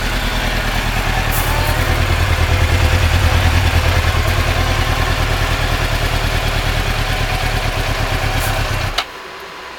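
Suzuki GSX-R sport bike's inline-four engine idling with a steady low pulse, growing a little louder in the middle, then cutting out abruptly about nine seconds in.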